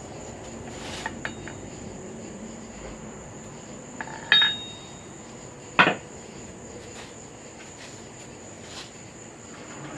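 Metal tools being handled at a forge: a few scattered metallic clicks and knocks, with a clink that rings briefly about four seconds in and the loudest knock near six seconds. A steady hiss with a thin high whine runs underneath.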